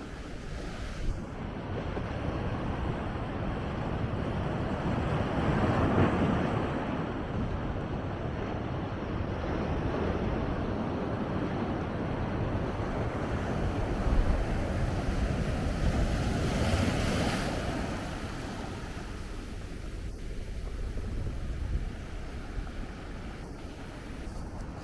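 Big ocean waves breaking and surging against a rocky shore, swelling loudest about six seconds in and again around fourteen to seventeen seconds in, with wind buffeting the microphone.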